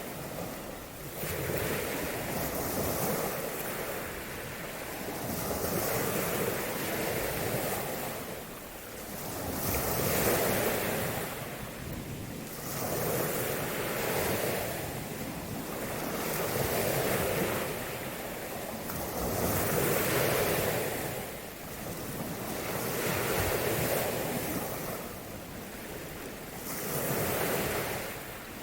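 Small ocean waves breaking and washing up the shore, one swell about every three seconds, with some wind buffeting the microphone.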